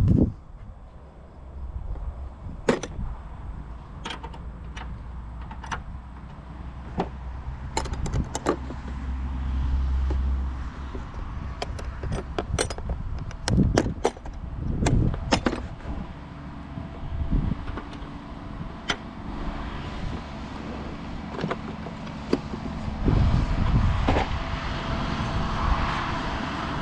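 Scattered metallic clinks and knocks of wrenches on the old mounting bolts and hardware of a finish mower, while the bolts are being removed, over a low rumble.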